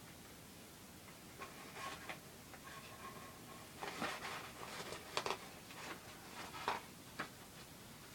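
Scattered sharp clicks and short rustles of plastic model-kit parts and packaging being handled, a few at a time, with the clearest clicks in the second half.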